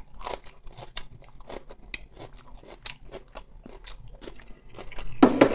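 Close-up mouth sounds of someone chewing a mouthful of shredded cabbage: many short, wet crunches and smacks at an uneven pace, with a louder mouth noise near the end.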